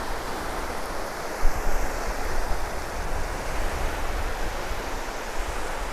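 Surf washing in along the shoreline, a steady rush of waves, with wind rumbling on the microphone and a brief louder gust about one and a half seconds in.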